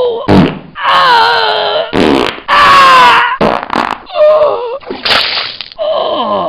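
A rapid string of short comic sound effects: pitched, voice-like noises that slide up and down in pitch, cut apart by brief clicks.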